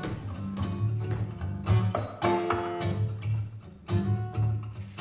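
Live band music between verses: plucked and strummed acoustic guitar over a steady bass line, with regular note attacks.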